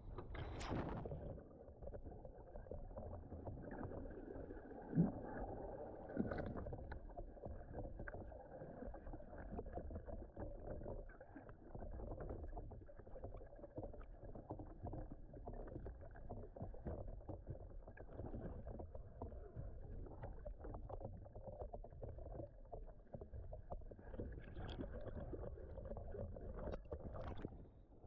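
Water lapping and sloshing against a kayak's hull, a steady low wash, with two brief knocks about five and six seconds in.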